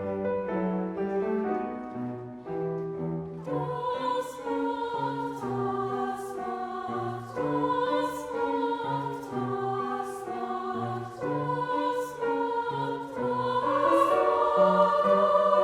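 A choir singing with piano accompaniment. For the first few seconds the piano plays alone, then the voices come in, and the singing grows louder near the end.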